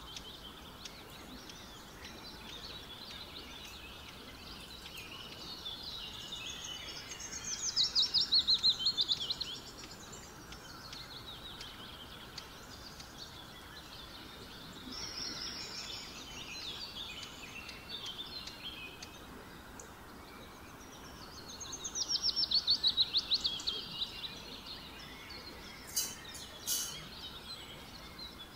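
Birds singing and chirping, with two loud phrases of rapid, falling trilled notes, one about a quarter of the way in and another past two-thirds. Two sharp clicks come near the end.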